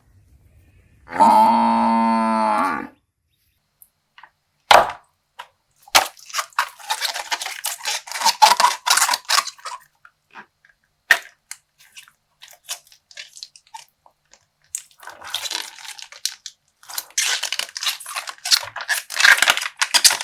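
A low, drawn-out moo-like call of a water buffalo, about a second in and lasting under two seconds. Then come a few sharp pops and long stretches of crinkling and tearing plastic as a slime-filled toy bag is popped and torn open.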